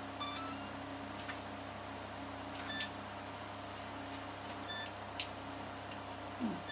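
Electronic speed controller of a 50mm electric ducted fan beeping through its motor after the flight battery is connected: a short run of rising tones, then a single short beep about every two seconds, typical of an ESC getting no throttle signal from a receiver that is not yet bound. A room fan hums steadily underneath, with a few light handling clicks.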